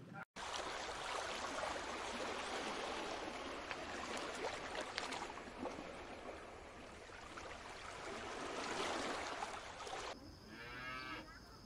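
Steady rushing, bubbling water noise with small clicks, cutting off abruptly about ten seconds in. A sheep then bleats once, a short wavering call.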